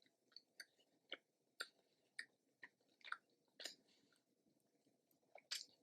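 A person chewing food with the mouth close to the microphone: soft, wet mouth clicks coming about every half second, faintly.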